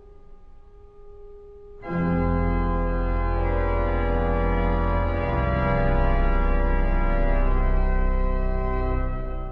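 Pipe organ playing: a few soft sustained notes, then about two seconds in a loud full chord enters over deep pedal bass. The chords change a few times before releasing near the end.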